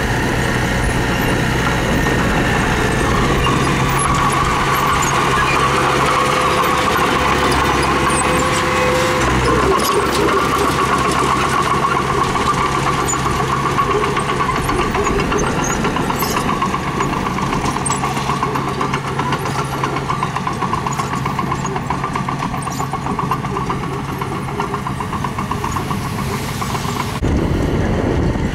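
Mini bulldozer's diesel engine running steadily under load. Its deep low note drops away about a third of the way in, and the sound changes suddenly near the end.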